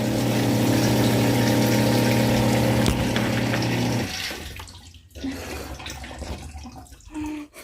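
A 12 V Seaflow RV water pump running steadily with a hum while water rushes through the hose, then switched off abruptly about four seconds in. Faint small knocks and drips follow.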